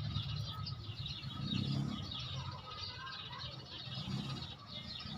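Small birds chirping busily and continuously, many short high calls overlapping, over a low rumble that swells twice.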